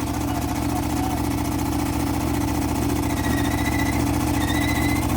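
Car engine idling with a steady low rumble and an even pulse; a faint high whistle joins about three seconds in.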